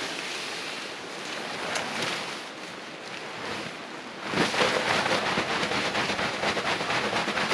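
Steady rush of a river with wind on the microphone; about four seconds in it turns louder and crackly, like rustling or gusts buffeting the mic.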